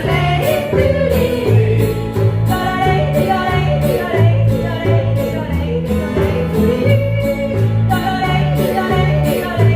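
Singing a song over instrumental accompaniment, with a steady bass line and an even beat.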